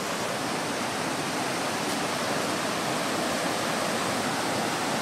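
Creek water rushing over falls nearby, a steady, even rush without breaks.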